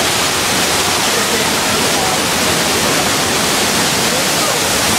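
Heavy rushing water, a steady, loud torrent, from the staged flash flood in the studio tour's earthquake set, with faint voices underneath.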